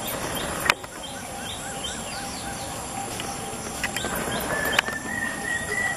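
Birds chirping outdoors: a quick run of four short notes, then a thin, held, high whistling tone from about two-thirds of the way through. A sharp click just under a second in is the loudest single sound.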